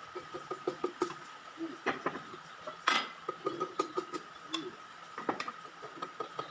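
Metal clinking and tapping as hand tools and loose metal engine parts are handled during an engine teardown: many short, irregular clinks, with one louder clank about three seconds in, over a faint steady whine.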